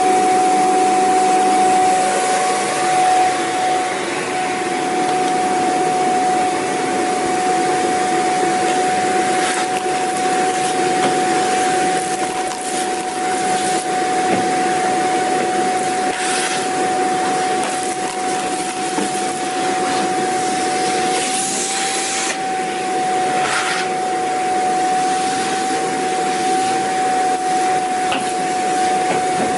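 Vacuum cleaner running steadily: a constant rush of air with a high, steady motor whine. A few brief hissing surges come in the second half.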